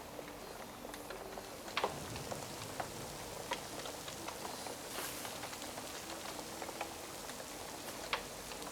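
Steady rain ambience with the scattered sharp pops and crackles of a wood fire, a louder pop about two seconds in and another near the end.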